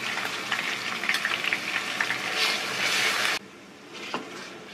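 Ginger-garlic paste and browned onion frying in hot oil in a pressure cooker: a steady sizzle with clicks and scrapes of the spoons as the paste is scraped in and stirred. About three and a half seconds in, the sizzle drops suddenly to a much fainter level.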